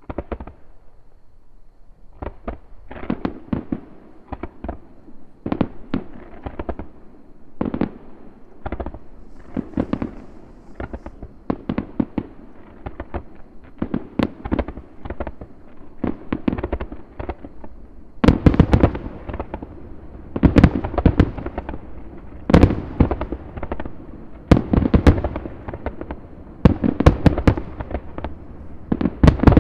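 Aerial fireworks bursting in rapid succession, a few sharp booms every second. The barrage grows denser and louder from about eighteen seconds in, typical of a finale.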